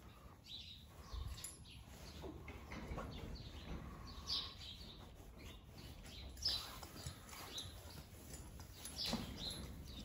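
Faint chirping of small birds, a few louder chirps about four, six and a half and nine seconds in.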